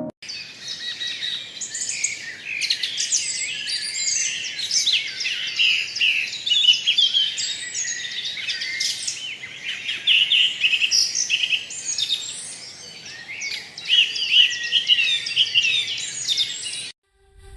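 Many small birds chirping and singing at once, a dense overlapping mix of short high calls and trills over a faint background hiss. It cuts off suddenly near the end.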